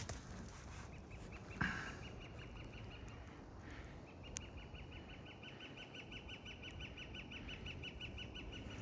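A small bird trilling: a rapid series of evenly repeated high notes, about eight a second, a brief run about a second in and a longer one lasting the last few seconds. A single soft thump comes about a second and a half in.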